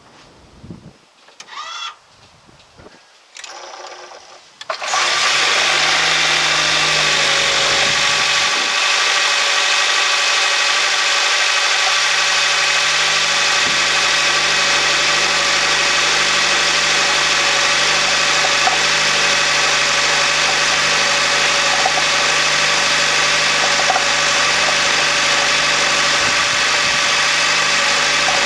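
Two short tones, then about five seconds in the Honda Odyssey e:HEV's petrol engine starts from cold and runs steadily. It carries a rattling (karakara) noise that appears only on cold start and stops within about a minute, which the dealer says has been seen on other cars of this model.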